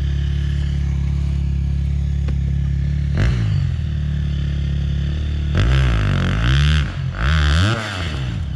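Two-stroke enduro dirt bike engine idling steadily, then revved in a series of quick throttle blips with the pitch rising and falling, and shut off right at the end.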